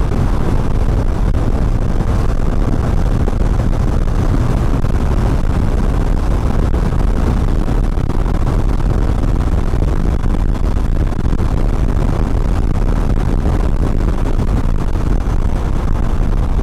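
Motorcycle riding at speed: a steady, deep rush of wind and road noise on the rider's microphone, with the engine running under it.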